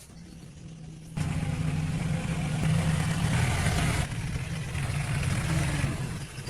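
An engine running steadily, jumping sharply louder about a second in.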